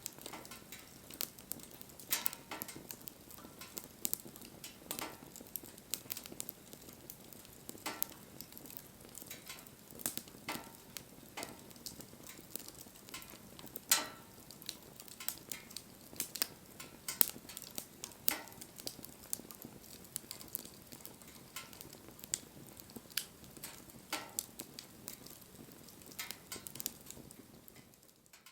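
Wood fire burning: a steady hiss and sizzle with irregular sharp cracks and pops from the burning wood. It fades out near the end.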